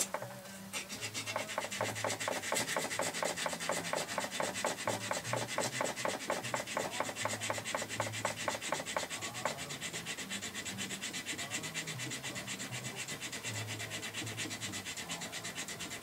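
Hand sanding with coarse 80-grit sandpaper in rapid, even back-and-forth strokes, taking down high spots on a part so it fits.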